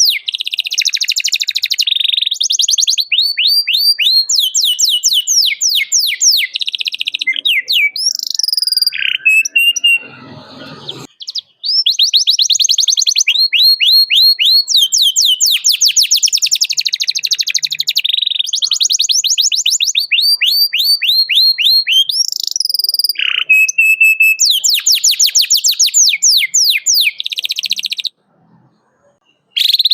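Domestic canary singing: long runs of rapid, repeated high chirps and trills, breaking off briefly about ten seconds in and stopping a couple of seconds before the end.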